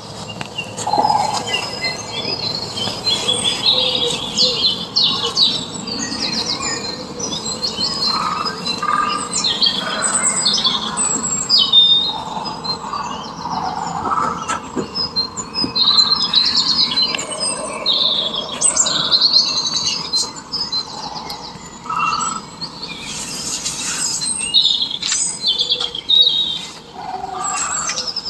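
Many birds chirping and calling at once, short overlapping high chirps and trills.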